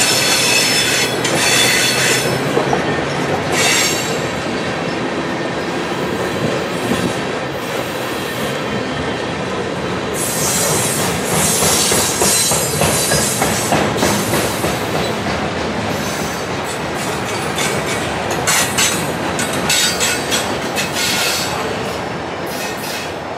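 Freight cars of a long mixed freight train, tank cars and boxcars, rolling past. The wheels clatter over the rail joints, with repeated bursts of high wheel squeal. The sound drops off near the end as the last car goes by.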